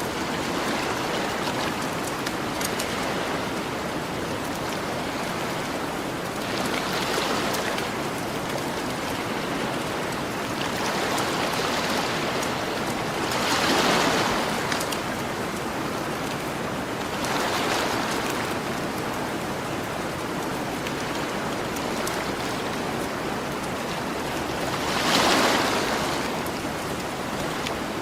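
Gentle ocean waves washing onto a beach, a steady wash that swells every few seconds as waves break, about five times. Faint crackles of a campfire are scattered through it.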